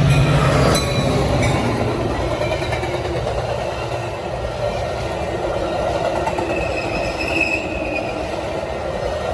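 Metra diesel commuter train rolling past: a loud low engine drone for the first second and a half, then the steady rumble of passenger cars going by, with a faint wheel squeal near the end.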